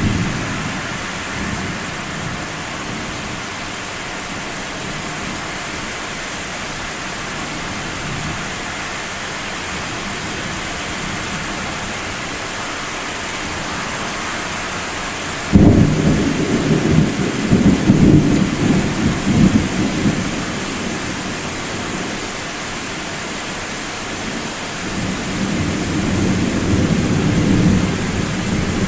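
Thunderstorm with steady rain hiss. About halfway through a sudden close thunderclap cracks and rolls into a deep rumble for several seconds; near the end a softer roll of thunder swells and fades.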